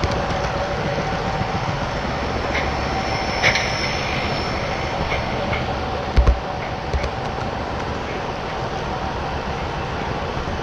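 HO scale model trains running on the layout's track: a steady hum of motors and wheels with a few sharp clicks, the loudest two about a third and two-thirds of the way through.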